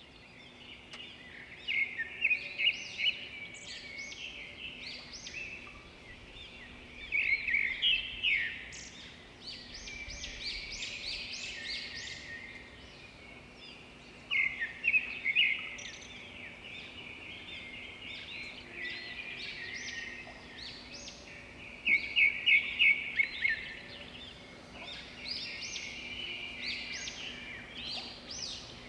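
Several small birds chirping and calling, with loud clusters of rapid chirps every several seconds between quieter twittering, over a faint steady low hum.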